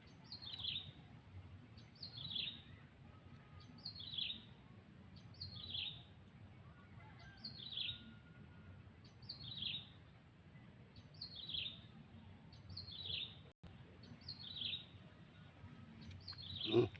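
A bird calling a short, falling note over and over, about ten times at an even pace of roughly one call every two seconds, over a steady high-pitched hiss.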